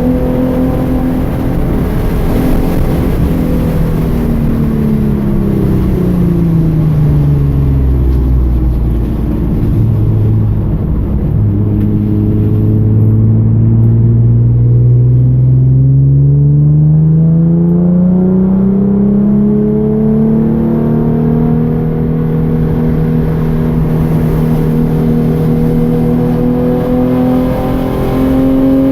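2013 Hyundai Genesis Coupe's 3.8-litre V6 on track: the engine note falls as the car slows for a corner, stays low for several seconds, then climbs again under acceleration and holds high. A hiss rises and falls with the car's speed.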